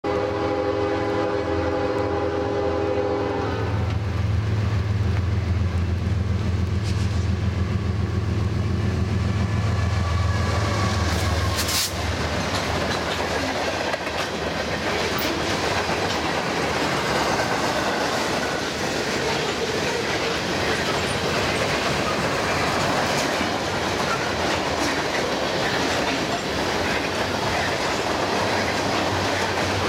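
CN freight train passing: its locomotive's chord horn sounds as it approaches and stops about three and a half seconds in. A low diesel engine drone follows as the locomotives go by, and from about twelve seconds in the freight cars roll past with a steady clickety-clack of wheels on the rails.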